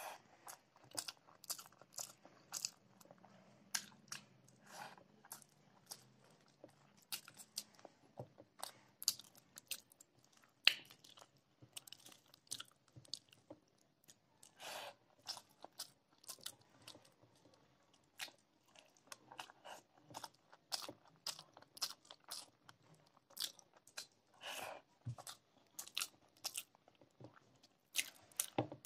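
Close-miked chewing and wet mouth smacking as a person eats rice and curry, with many short, sharp clicks of the lips and mouth.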